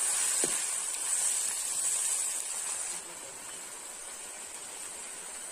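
Onions frying in hot oil in a large kadhai, a steady sizzle. About three seconds in it changes abruptly to a quieter sizzle of masala frying in the pan.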